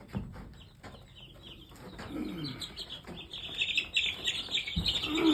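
Three-week-old chicks peeping, the peeping growing thick and continuous from about halfway in, with a couple of low thumps as they are carried in.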